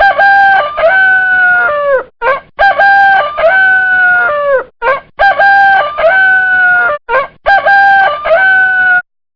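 Rooster crowing cock-a-doodle-doo four times in a row, each crow a short note then a long held call that drops at the end, about every two and a half seconds.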